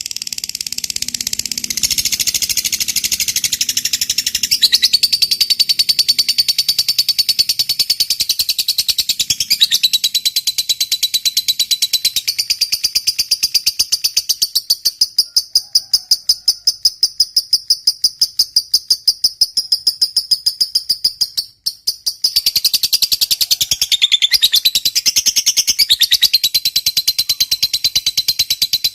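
Lovebird giving a long 'ngekek': a rapid, high-pitched chattering trill of evenly repeated notes that breaks off for a moment about three-quarters of the way through, then carries on. This sustained ngekek is the call that fanciers prize in a fighter lovebird.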